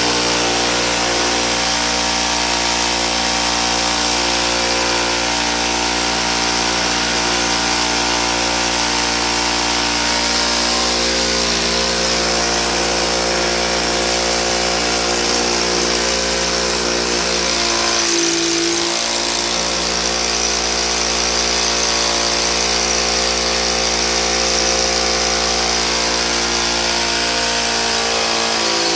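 Bosch electric drill running steadily with a constant motor whine, with a brief change in its tone about two-thirds of the way through.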